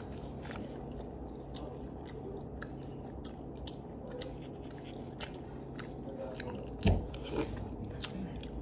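Close-up chewing of a sandwich and soup, with many small wet mouth clicks. A dull thud about seven seconds in is the loudest moment.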